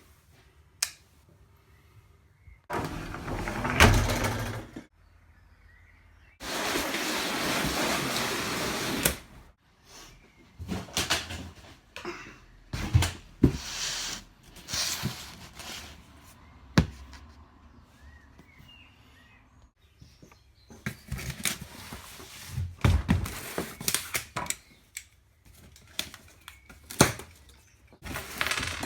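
Handling noises from unboxing an exhaust kit: knocks and thunks of parts and packaging being moved, with two long stretches of rustling or scraping, the longest about six seconds in.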